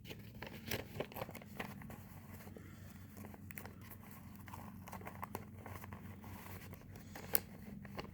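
A sheet of paper being folded and creased by hand: faint crinkling and rustling with scattered small clicks, and one sharper crackle near the end.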